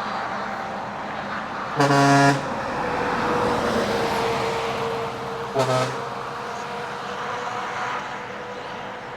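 A departing truck sounding its horn twice: a half-second blast about two seconds in and a shorter one near six seconds, over the steady sound of truck engines running.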